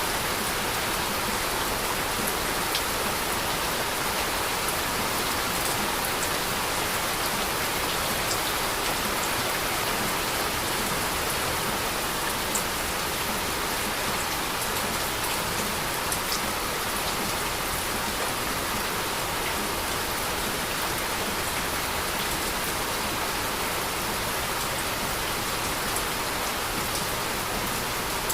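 Heavy rain falling steadily: an even hiss with a few sharper drop ticks now and then.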